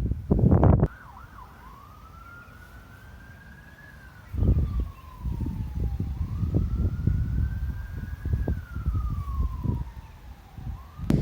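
An emergency-vehicle siren wailing faintly, its pitch slowly rising and falling twice. Gusts of wind rumble on the microphone, loudest at the very start and again from about four seconds in.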